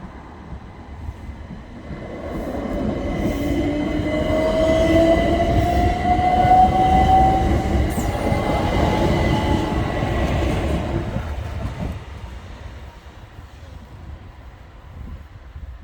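Southern Class 377 electric multiple unit passing over the crossing: rumble of wheels on rail with the traction motors whining and rising slightly in pitch as it gathers speed. It builds a couple of seconds in, is loudest mid-way and fades away after about twelve seconds.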